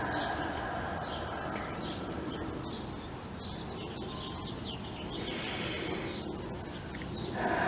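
Birds chirping in the background, with one slow breath out about five and a half seconds in.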